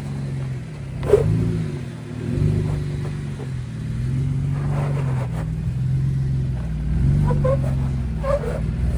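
Jeep engine running under off-road load, its pitch repeatedly rising and falling as the throttle is worked, with a sharp knock about a second in.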